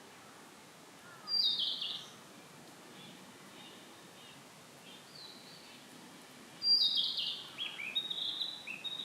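Narcissus flycatcher singing: a short phrase of clear notes falling in pitch about a second in, a few soft notes after it, then a longer, louder phrase of repeated sliding notes starting near the end.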